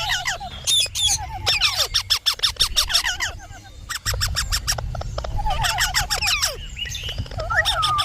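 Indian ringneck parrot squawking and chattering: runs of rapid sharp calls mixed with wavering whistled notes, in groups that recur about every four seconds, over a low steady hum.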